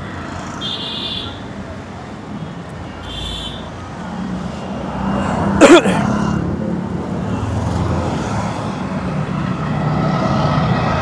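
Road traffic and motorcycle engines running, getting louder about four seconds in, with one short, loud, sharp sound just before the middle.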